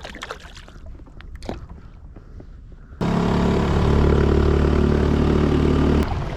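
Small outboard motor running at a steady speed, probably the Honda 2.3 hp outboard on the kayak. It comes in abruptly about three seconds in and cuts off about three seconds later, after a quiet start with a few small clicks.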